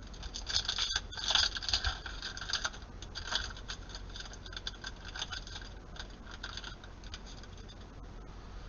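Panini Prizm basketball cards being flipped through and slid against one another in the hand: a run of quick, light clicks and rustles, busiest in the first three seconds and sparser after.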